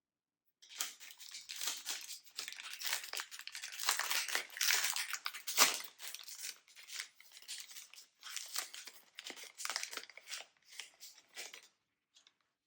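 Snack packaging being handled: crinkling and rustling in quick, irregular crackles, with one sharp crack about halfway.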